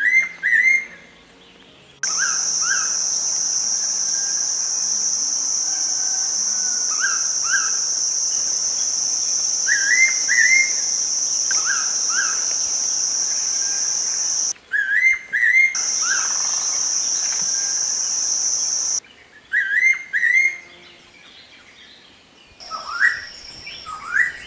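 Pitta giving repeated whistled calls, short whistles in pairs, again and again. Behind them for much of the time runs a steady high-pitched drone that breaks off abruptly and comes back.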